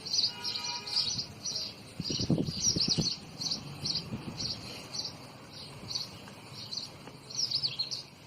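Small bird chirping over and over, short high chirps about twice a second. This is likely a fledgling's repeated calling. A few low thuds come around two to three seconds in.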